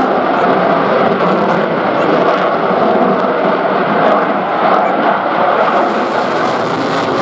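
Jet noise from a Eurofighter Typhoon's twin EJ200 turbofans as it flies its display, a loud, steady rushing noise.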